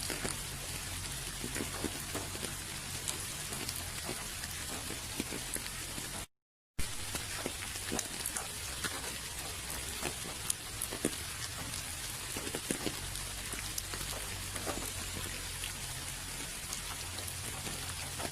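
Steady rainfall, a constant hiss with many separate drop hits clicking through it. About six seconds in, the sound drops out to silence for about half a second, then resumes.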